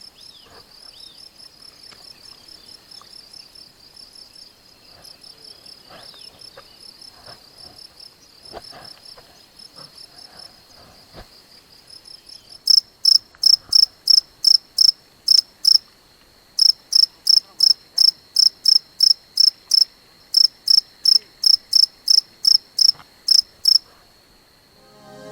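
Crickets chirping at night: a steady high trill throughout. About halfway through, a nearer insect joins with loud, evenly spaced chirps at about four a second, in three bouts with short pauses between.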